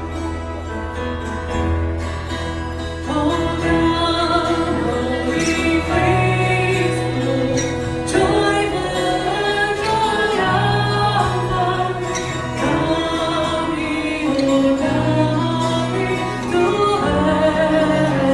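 A group of people singing a song over instrumental accompaniment with long, steady bass notes; the voices come in strongly about three seconds in.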